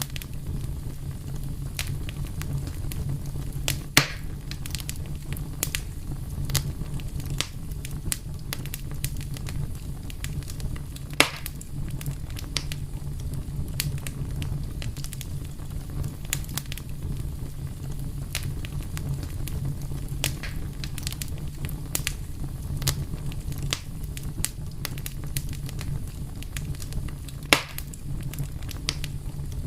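A fire crackling steadily over a low, even rumble, with frequent small pops and snaps. Three louder pops stand out, about four and eleven seconds in and near the end.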